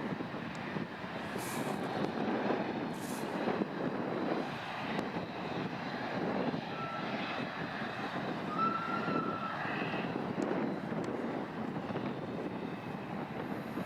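Airliner engines running, a steady, even jet noise with a brief thin whistle a little past the middle.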